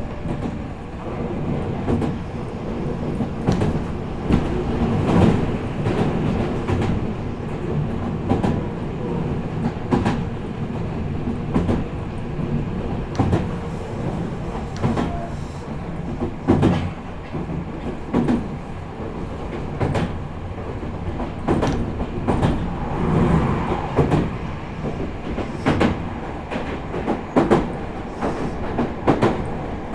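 Meitetsu 4000 series electric train running at speed, heard from inside the car: a steady rumble of wheels on rail with irregular sharp clicks and knocks over rail joints.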